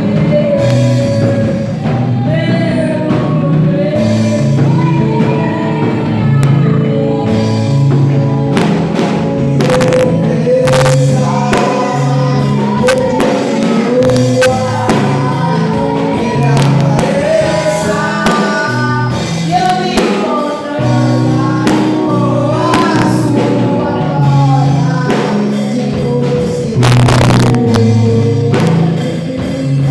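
Gospel worship song: voices singing over instrumental backing, with a moving bass line and frequent percussion strikes.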